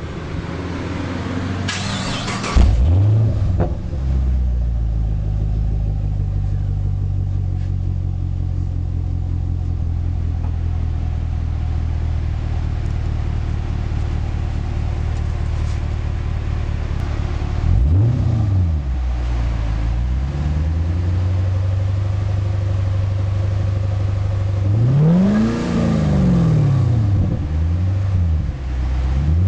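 Supercharged 6.2-litre V8 of a 2010 Chevy Camaro SS, breathing through a new Flowmaster American Thunder cat-back exhaust with 40 Series mufflers and an X-pipe. It starts about two seconds in with a quick flare, then idles with a deep, steady note. It is blipped three times: a short rev about 18 seconds in, a higher one about 25 seconds in, and another at the very end.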